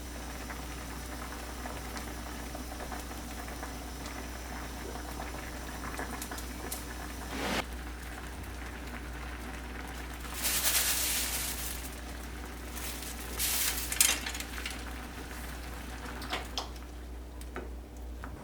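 A pot boiling on the stove, bubbling steadily, with two louder stretches of hissing about ten and thirteen seconds in.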